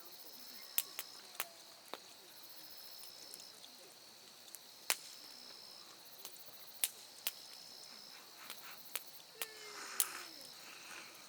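Campfire wood crackling, with about a dozen sharp, irregular pops, over an insect, likely a cricket, trilling in a steady run of high, second-long trills.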